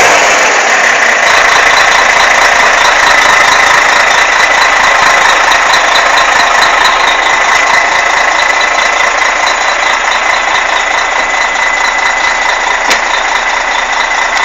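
Scania K113 bus's 11-litre six-cylinder diesel engine running steadily, with a steady high whine over the engine noise and a single sharp click near the end.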